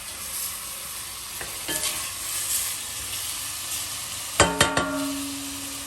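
Chicken and onions sizzling in olive oil in a saucepan while being stirred. About four and a half seconds in, a sharp metal clank rings on briefly.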